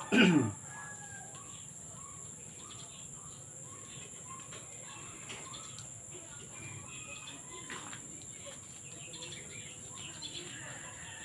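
Small birds chirping over and over in the background. Right at the start comes a brief, loud call that falls steeply in pitch.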